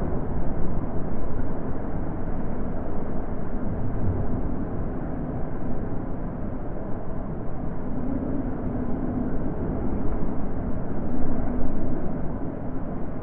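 Wind blowing steadily, a deep rushing noise with no high hiss that slowly swells and eases in gusts.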